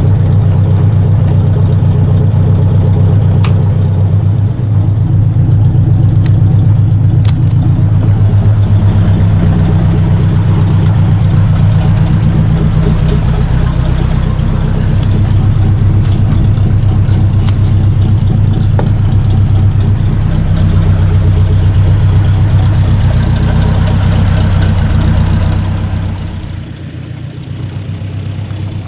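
1953 Ford Golden Jubilee tractor's four-cylinder gasoline engine running steadily, with a few light clicks over it. Near the end the engine note drops and quietens, as when the throttle is eased back.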